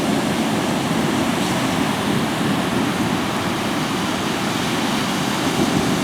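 Ocean surf washing steadily, a dense, even rush of breaking waves.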